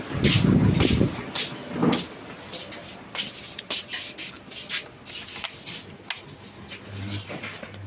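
Scattered clicks, knocks and clatters of metal tools and engine parts being handled, with a louder low rumbling knock in the first second.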